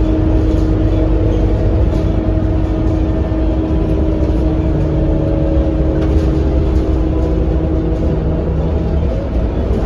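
Scania K230UB city bus's diesel engine running steadily under way with a heavy low rumble. A steady whine is held over it and stops about eight seconds in.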